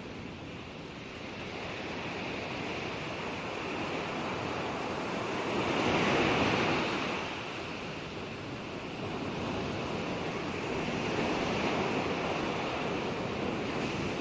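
Ocean waves breaking and washing on the shore, a steady surf that swells to a louder crash about six seconds in and rises again near the end.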